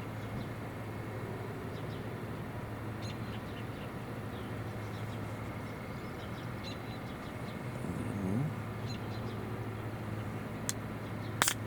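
Faint, scattered short bird chirps over a steady low hum, with a sharp click near the end.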